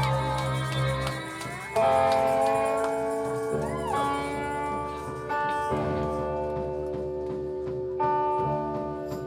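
Live band instruments sustaining held, droning notes that step to a new pitch every couple of seconds, with one sliding bend about four seconds in.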